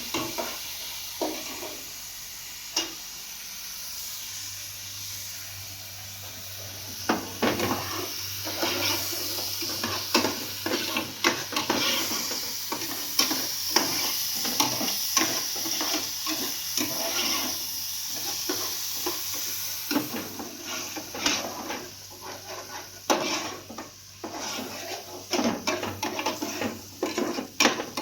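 Repeated scraping and knocking of a hand tool working wet cement mortar. The strokes are sparse at first and come thick and fast from about seven seconds in.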